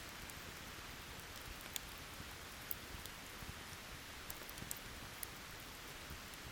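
Steady rain hiss, with a few sharp, scattered pops from a crackling wood campfire.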